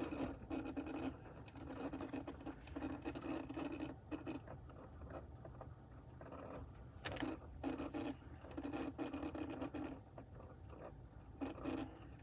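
Heater flap motor behind a Toyota Avensis T25 dashboard making a repeating scraping, ticking noise in short bursts, with a pause partway through and a sharp click just after it. This is the fault noise the owner traced to the heater flap motor.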